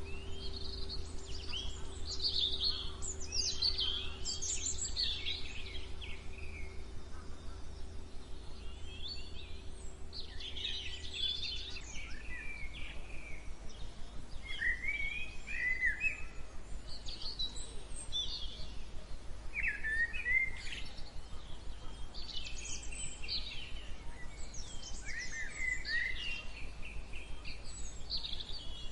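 Several songbirds singing, with quick chirps and trills overlapping one another, over a low steady hum that changes about twelve seconds in.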